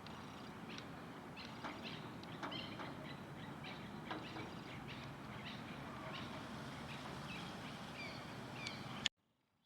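Many small birds chirping in short, overlapping calls over a steady background hiss. The sound cuts off abruptly with a click about nine seconds in.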